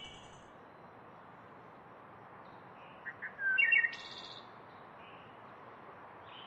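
Birds chirping in short clusters of quick high notes, at the start and again a little over three seconds in, over a steady background hiss.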